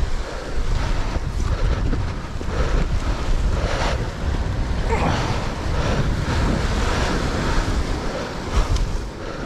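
Wind buffeting the microphone over ocean swell washing against a rock ledge.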